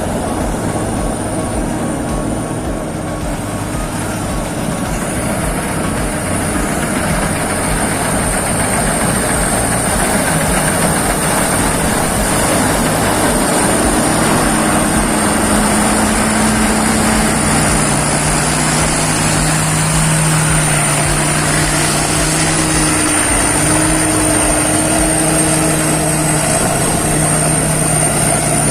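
Peng Charoen Kanchang rice combine harvester running: a steady, loud engine drone with machinery clatter and a thin high whine over the top, growing a little louder a few seconds in.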